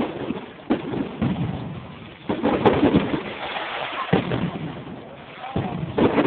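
Fireworks going off: a string of irregular bangs and booms, each trailing into a rumbling echo.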